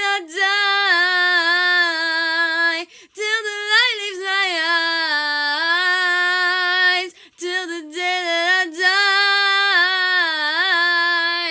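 Solo female voice singing a cappella, long held notes with vibrato in four phrases separated by short breaths.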